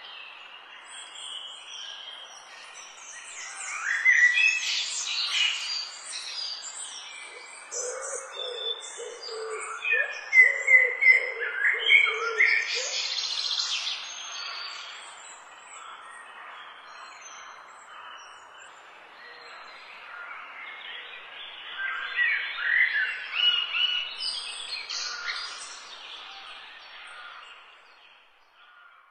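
Birdsong from several birds, with chirps and short whistled phrases over a faint steady hiss. The singing comes in busier bursts, the liveliest a few seconds in, around the middle, and again toward the end.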